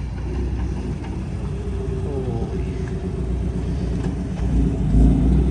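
Acura NSX driving slowly past, a steady low engine rumble with a slight change in pitch around the middle.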